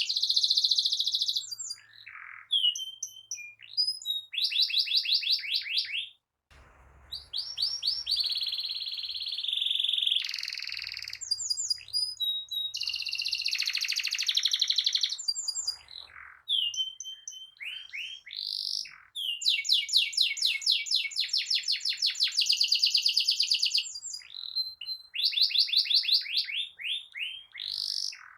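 Domestic canary singing nonstop in long rolls: fast trills of rapidly repeated notes alternating with rising and falling whistled notes. The song cuts out for a moment about six seconds in.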